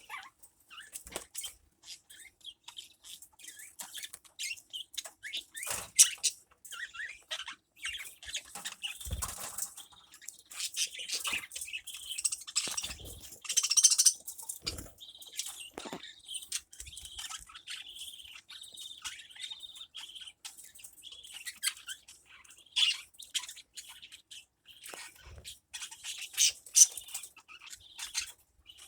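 Birds chirping in many short, high calls, with a steadier high trill for several seconds midway and a few louder sharp squawks.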